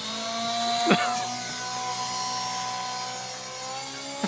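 RC helicopter's motor and rotors running with a steady whine, its pitch rising slightly near the end. A short sharp sound stands out about a second in.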